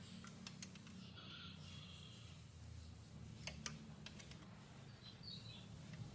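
Ceiling fan motor running with a steady low hum, with scattered faint clicks.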